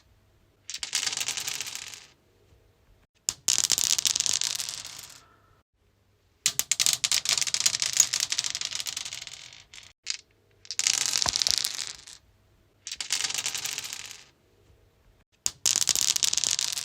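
Dice rolling on a stone surface, each roll a clattering run of quick clicks that fades out over a second or two. Six separate rolls, the third running longer, about three and a half seconds.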